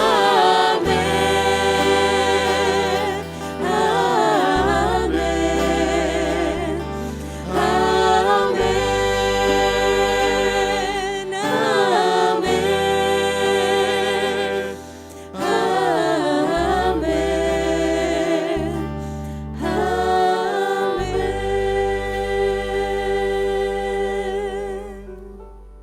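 A group of voices singing a slow hymn over steady held low notes, in long phrases, with the last note fading away near the end.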